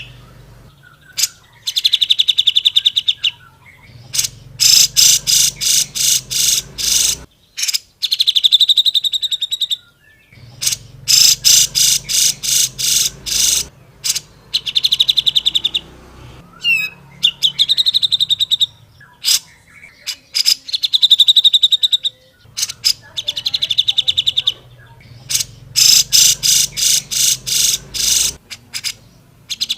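Grey-cheeked bulbul (cucak jenggot) singing loudly: phrases of rapid, evenly repeated trilled notes, each phrase one to three seconds long, coming again and again with short pauses between.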